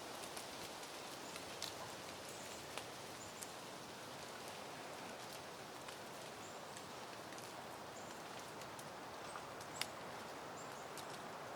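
Soft, steady wind rustling through foliage, with scattered faint ticks and a few brief high chirps.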